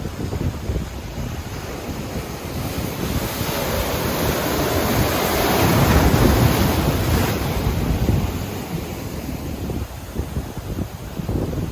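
Ocean surf breaking on the beach, driven by typhoon swell: the wash swells to a peak about halfway through and then fades. Wind rumbles on the microphone throughout.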